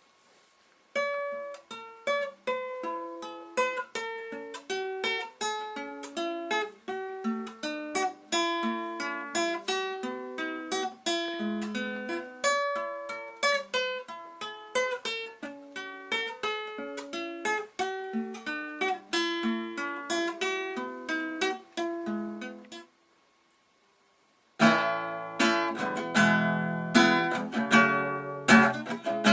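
Acoustic guitar played alone, fingerpicking single notes in a steady arpeggio for about twenty seconds. It stops briefly, then comes back near the end with louder strummed chords.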